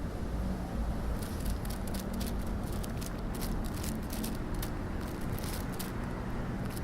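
Dry fallen leaves rustling and crackling underfoot, irregular crisp crackles starting about a second in, over a steady low rumble.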